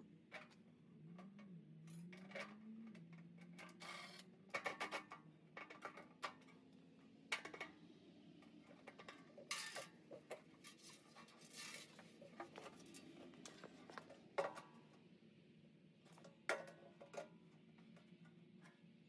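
Scattered metallic clinks, taps and knocks of tools and sheet-metal parts being handled over a faint low hum, typical of hands-on work on a furnace blower assembly.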